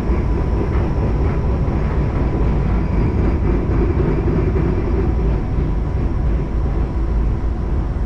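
A Moka Railway train running along the line: a steady, loud rumble of wheels on track with a faint steady whine.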